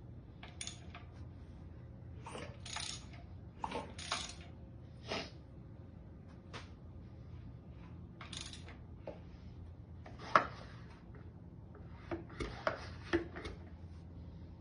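Scattered light metallic clinks and knocks of metal tools and parts being handled, a dozen or so at uneven intervals, the sharpest about two-thirds of the way through, over a low steady hum.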